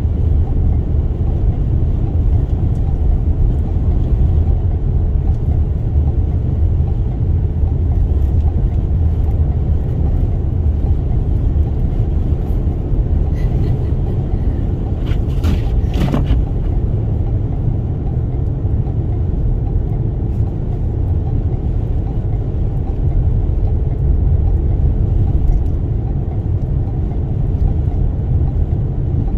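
Steady low rumble of a moving Toyota Sienna minivan on a snowy highway: road, tyre and wind noise, with a few brief clicks about halfway through.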